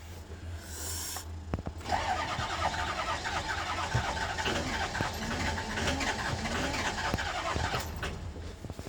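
6.0 diesel engine being cranked by its starter for about six seconds without firing. It turns over with plenty of battery, but it will not catch.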